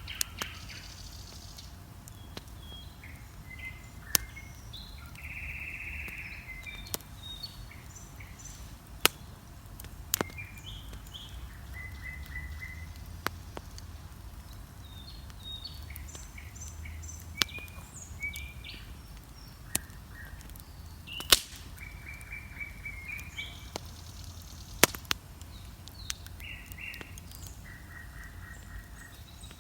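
A bonfire crackling, with sharp loud pops every few seconds and a steady low rumble underneath, while several songbirds sing short chirps and trills.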